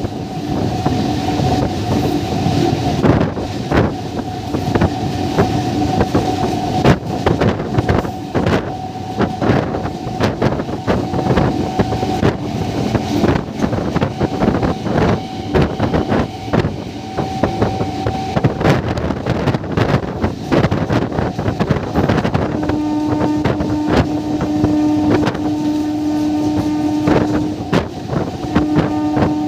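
MEMU electric multiple-unit train running at speed, its wheels clattering over the rails, with wind on the microphone. About 23 seconds in, a long steady note comes in, breaks off for a moment, and then resumes.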